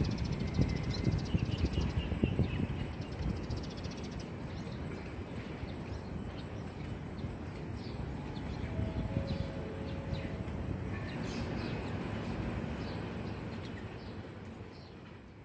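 Wild birds giving short scattered chirps over low wind rumble on the microphone, with a steady very high-pitched hum throughout. Everything fades out at the end.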